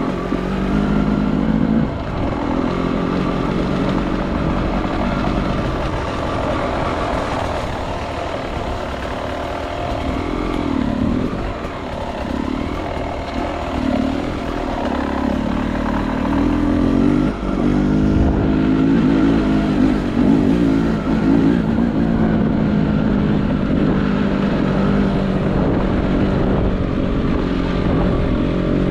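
Beta 300 RR two-stroke enduro motorcycle engine running under changing throttle, its pitch rising and falling throughout, with a softer stretch in the middle.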